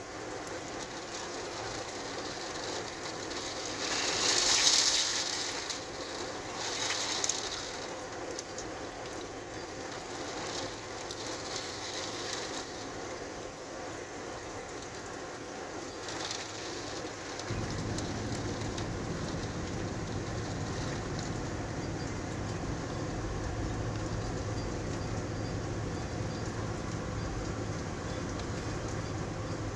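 Rain and wind of a severe thunderstorm: a steady hiss with two louder surges a few seconds in, then a low steady rumble that sets in suddenly just past halfway and carries on.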